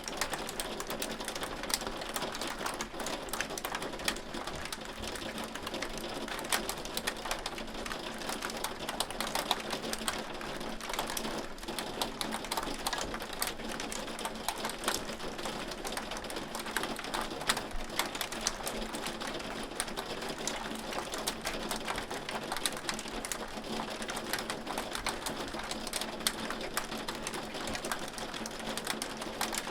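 Hail falling and striking a hard surface: a dense, steady stream of small sharp ticks over a constant hiss.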